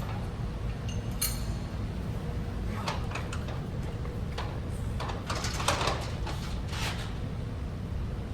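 Lat pulldown machine's weight stack and cable sliding and knocking through repeated reps, in short irregular strokes clustered over the middle of the clip, over a steady low rumble.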